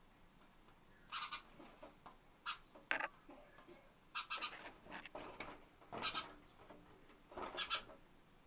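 A bird trapped inside a window frame, making short irregular bursts of sound, about six of them, as it tries to get out.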